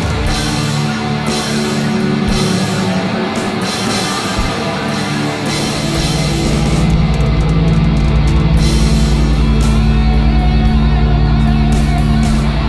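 Instrumental rock music with electric guitars and a drum kit, no singing. A deep, heavy bass comes in about halfway through.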